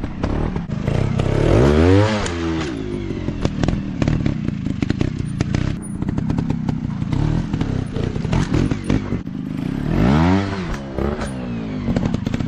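Dirt bike engine running and revving, its pitch rising and falling back twice, about a second and a half in and again near the end, over a steady run of clattering knocks.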